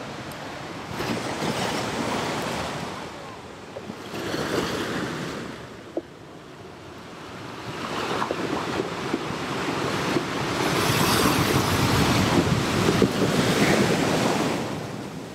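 Ocean waves washing in and receding in slow swells, one long swell building over the second half, with a single sharp click about six seconds in.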